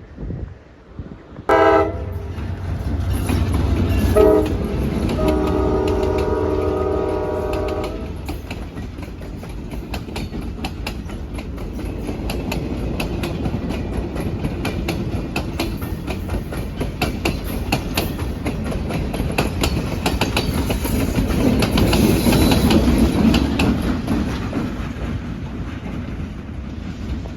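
Train horn sounding a chord in a couple of short blasts and then one long blast of about three seconds, followed by the train rolling past with the steady clickety-clack of its wheels over rail joints.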